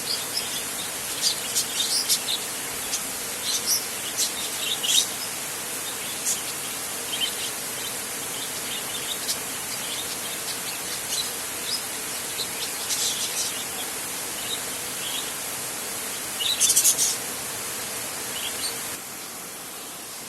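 Small birds chirping in short, high calls over a steady hiss, with the loudest flurry of chirps about three-quarters of the way through. Near the end the chirping stops abruptly and only a quieter, even hiss remains.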